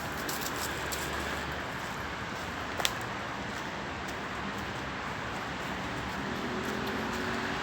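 Steady hum of distant road traffic, with one sharp click about three seconds in.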